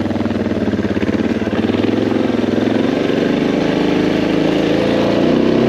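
Suzuki DR650's single-cylinder engine running steadily as the motorcycle is ridden, its pitch shifting slightly up and down.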